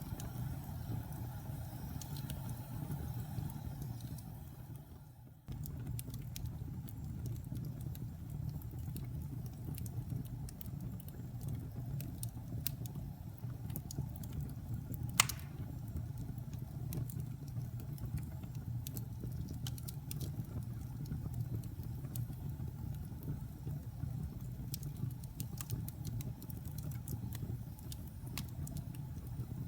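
Wood fire burning in a fireplace: a steady low rumble with scattered crackles, and one sharp, loud pop about halfway through. About five seconds in, the sound fades out and then cuts back in suddenly.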